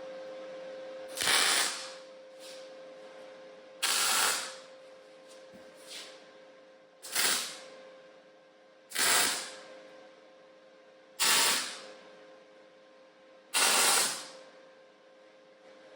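Welder laying six short tack welds on a steel box, each a hissing burst of under a second with a sharp start, a few seconds apart, over a steady hum.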